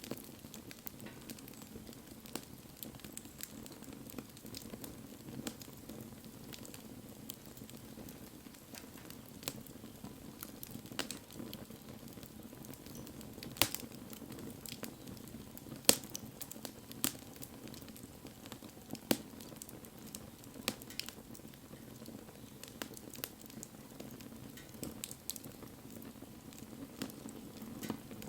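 Wood bonfire burning: a steady low rush from the flames with scattered sharp crackles and pops, a few louder ones a little past the middle.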